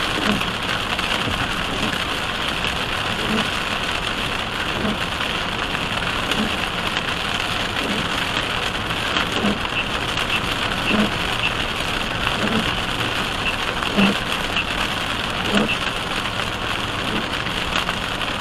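Heavy rain pelting a car moving at highway speed, heard from inside the cabin as a dense steady hiss, with a soft thump from the windshield wipers about every second and a half.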